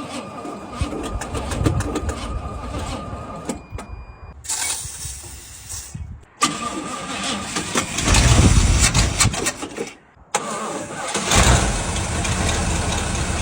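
A long-dead 1977 GMC C7000 truck engine being cranked on the starter with a whine, stopping after about four seconds. It is cranked again, fires and runs loudly around eight seconds in, then keeps running steadily after a brief break.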